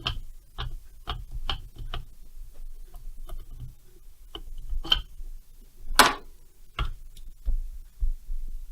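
Hand tools and small metal parts clicking and tapping against one another during work on a chainsaw engine. There are about a dozen sharp, irregular clicks over a low handling rumble, with a louder, longer clatter about six seconds in.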